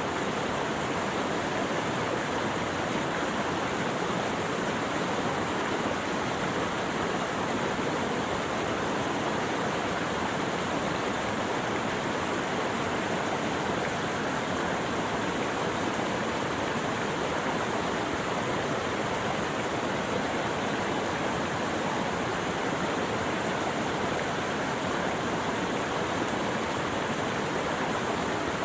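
Running water: a steady, even rush with no breaks or separate splashes.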